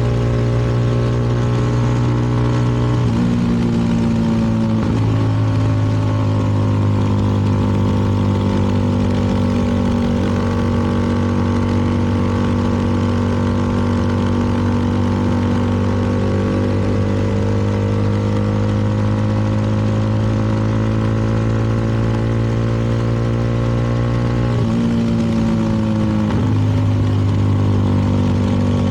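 CFMoto 300NK motorcycle's single-cylinder engine running steadily under way. Its note drops and settles at a new pitch twice, about three seconds in and again a few seconds before the end.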